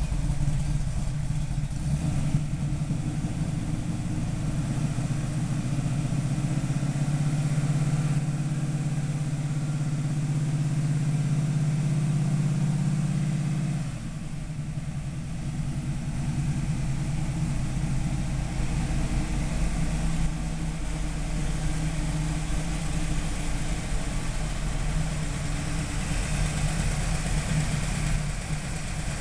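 1967 Camaro SS's V8 engine idling steadily, without revving. The sound drops somewhat about halfway through.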